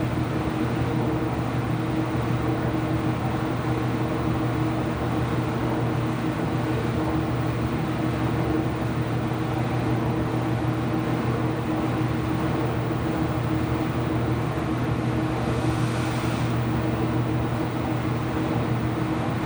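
Steady machine hum in a laundry room, with a couple of steady humming tones and no rhythm. A faint short hiss comes about 16 seconds in.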